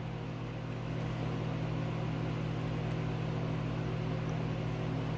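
Steady low electrical hum with an even hiss over it, slightly louder from about a second in.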